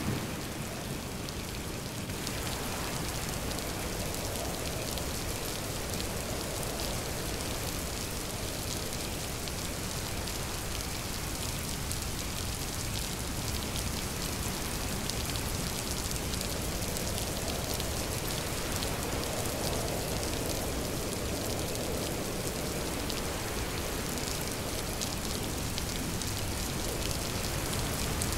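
Steady heavy rain falling on surfaces: a dense, even hiss with fine drop impacts ticking through it.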